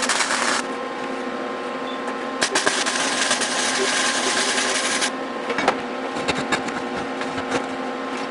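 A machine running with a steady hum, broken by stretches of harsh hiss that start and stop abruptly: one at the very start lasting about half a second, and one from about two and a half to five seconds in. Scattered crackles and clicks follow near the end.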